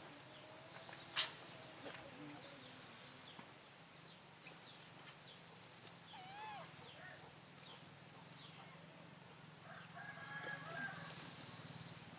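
Birds chirping and calling: a rapid high trill of about eight notes about a second in, then scattered shorter wavy calls and a longer, lower call near the end.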